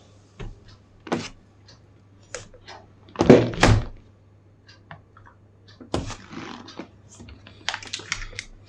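Plastic prying tool working around the edge of a laptop's bottom panel, its plastic clips snapping and knocking loose in irregular clicks and thunks, the loudest cluster a little after three seconds in.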